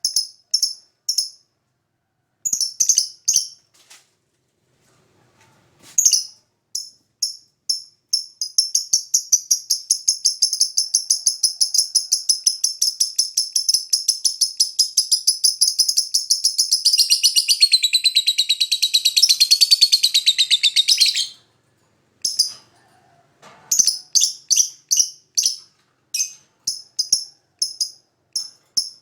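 Lovebird singing: a run of short, sharp, high chirps, then a long, rapid, unbroken trill of more than ten seconds that slides lower near its end and breaks off suddenly, followed by more spaced chirps.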